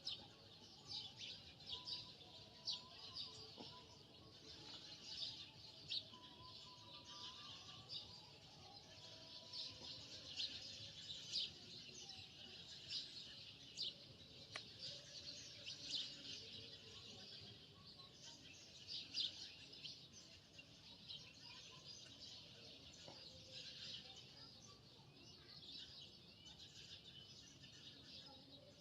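Faint background chirping of small birds: many short, high calls overlapping without pause.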